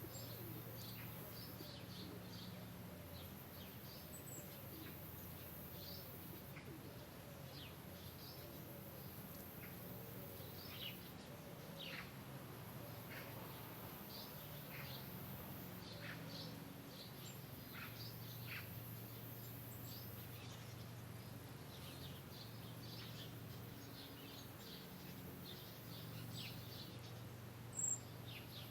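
Faint birds chirping, scattered short chirps that fall in pitch, over a steady low hum, with one sharp click near the end.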